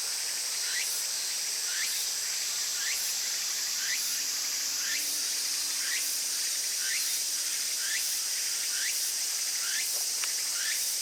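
Summer insect chorus: a steady shrill drone, with one insect repeating a short chirp about once every 0.7 seconds.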